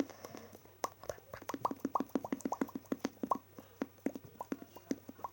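Mouth-made 'bubbles' noise: a rapid string of wet, pitched pops and plops from relaxed lips, several a second, starting about a second in and running to near the end.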